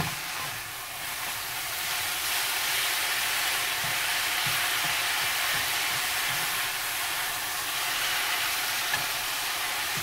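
Chwinamul (aster greens) sizzling in a hot pan as they are stir-fried and tossed with a wooden spatula and chopsticks: a steady sizzle with a few soft knocks of the utensils.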